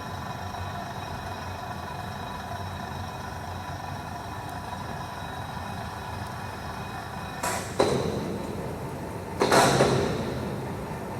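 Steady hum of running industrial machinery with several fixed tones. About two-thirds of the way in, and again near the end, it is broken by two loud sliding, scraping noises that start sharply and fade over a second or so.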